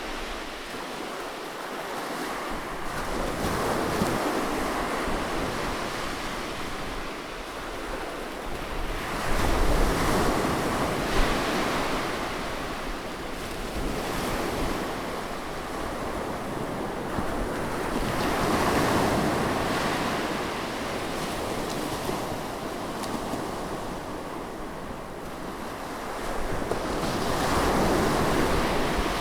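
Sea waves breaking on rocks and washing against each other, a continuous rushing surf that swells and ebbs every several seconds. Some wind noise is on the microphone.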